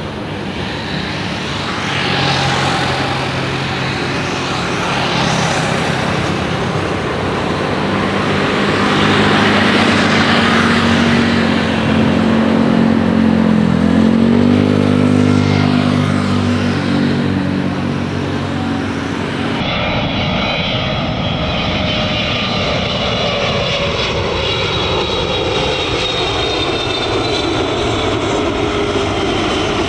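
Jet airliner engines of a Boeing 777-300 on landing approach, running with a steady noisy rush and a low droning hum. About two-thirds through, the sound changes abruptly and several whining tones glide slowly downward as the aircraft passes.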